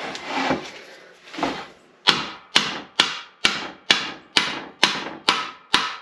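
A hammer striking during an NP205 transfer case rebuild: nine sharp, evenly spaced blows about two a second, starting about two seconds in. Quieter scraping and handling of parts comes before them.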